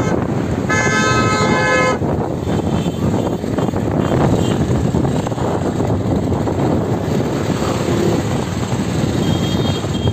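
A vehicle horn blares for about a second over steady road and wind noise from a moving vehicle.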